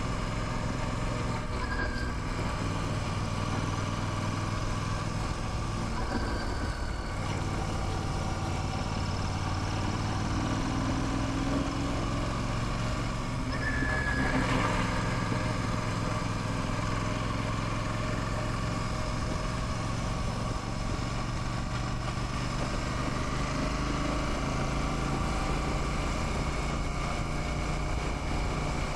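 Royal Enfield Classic 650's 648 cc parallel-twin engine running steadily while the motorcycle cruises.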